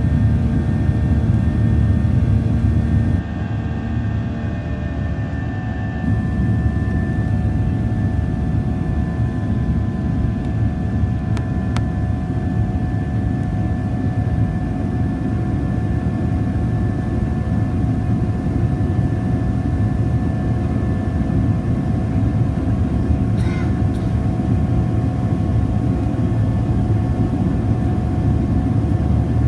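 Jet engines of a Ryanair Boeing 737-800 heard from inside the cabin during take-off: a loud, steady roar with several steady whining tones over it. The roar drops briefly about three seconds in, then comes back up.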